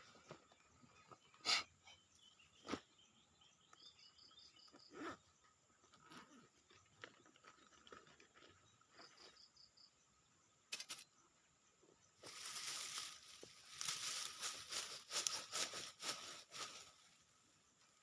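Hand tools cutting and digging at a serut shrub's roots: a few scattered sharp knocks, then about five seconds of dense scraping and rustling near the end. Short runs of high, quickly pulsed chirps come twice.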